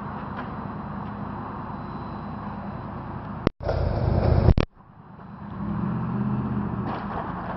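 Honda CBR600RR's inline-four engine running low and steady. About three and a half seconds in, a loud burst of noise with abrupt edges lasts about a second and cuts off. The engine sound then swells back.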